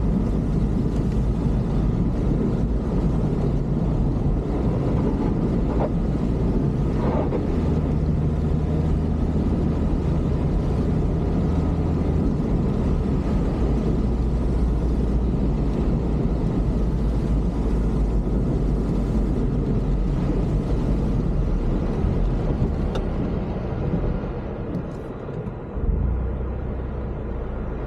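A vehicle on the move: a steady engine hum with road noise, dipping briefly near the end.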